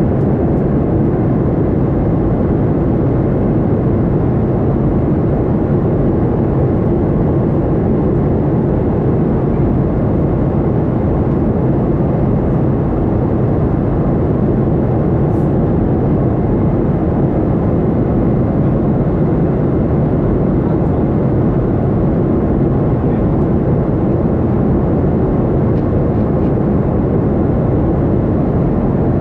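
Boeing 737-800 airliner in flight: a steady, unbroken rumble of its CFM56 jet engines and airflow.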